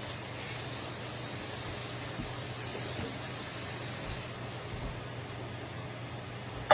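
Sausage, tomatoes and olive oil sizzling and steaming in a covered frying pan: a steady hiss whose highest part drops away about five seconds in, over a low steady hum.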